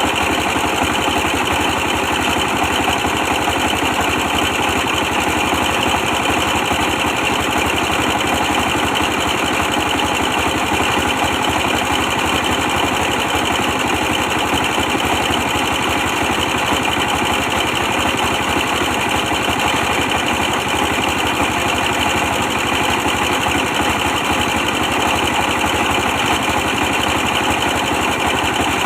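A 24 hp stationary diesel engine running steadily at a constant speed, driving a brick-pressing machine.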